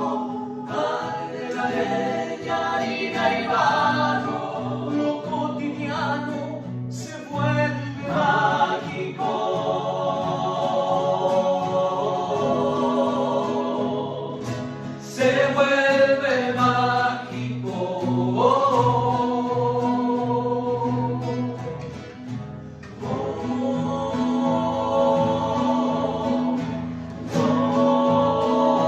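Music with choral singing over sustained low accompaniment.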